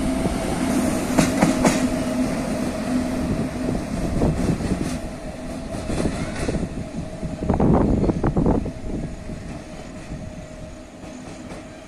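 Indian Railways electric locomotive passing on the track, a steady running hum with wheel clatter that grows loudest around eight seconds in, then fades.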